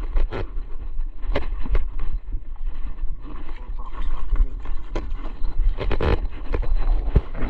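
Wind rumbling on the microphone, with scattered short knocks and scuffs.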